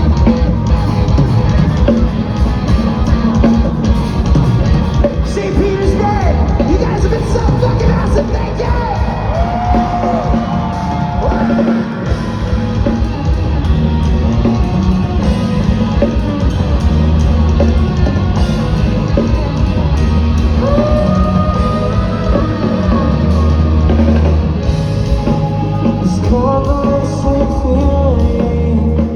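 A live rock band playing loudly in a concert hall, with heavy drums and bass, a singer holding long notes, and yelled vocals.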